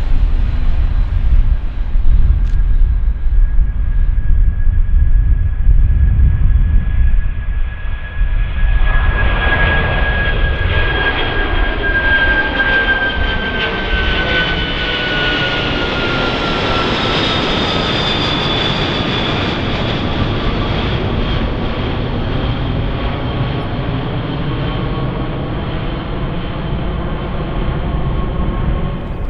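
Jet airliner's turbofan engines passing: a low, uneven rumble gives way about eight seconds in to full engine noise with a high fan whine that slowly falls in pitch as the aircraft goes by, then a steady engine sound.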